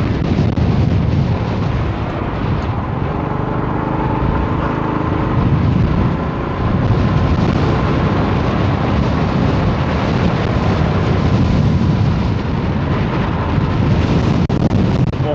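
Strong storm wind gusting, a loud rumbling buffet of wind over the microphone, with a car's engine and road noise running steadily beneath.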